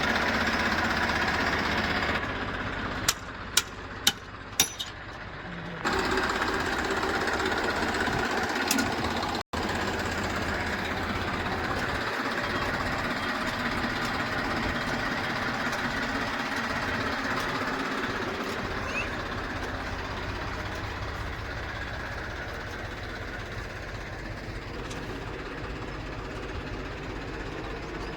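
Heavy diesel engine running with a steady clatter. A couple of seconds in it drops to a quieter stretch with four sharp clicks, then comes back up and cuts out for an instant about nine seconds in.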